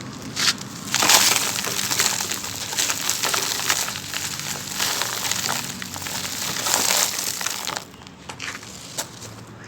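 Grainy sand-cement chunks crunching and crumbling apart in water: a dense crackle of many small cracks from about a second in, thinning to a few scattered cracks near the end.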